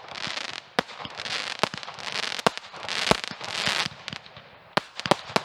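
Fireworks going off: a fast, irregular run of sharp cracks and bangs, with several stretches of crackling hiss lasting about half a second each.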